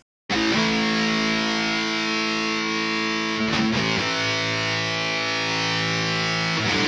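Electric guitar played through the Neural DSP Mesa Boogie Mark IIC+ amp model, ringing out distorted held chords. The chord changes about halfway through and again near the end.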